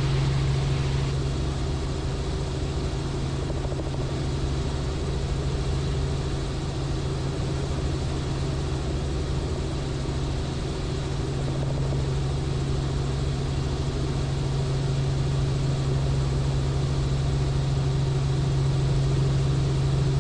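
Robinson R44 helicopter in cruise, heard from inside the cabin: a steady, even drone of its piston engine and rotors with a strong low hum that holds level throughout.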